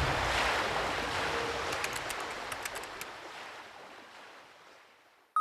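Rushing sea-wave noise fading out steadily to near silence over about five seconds.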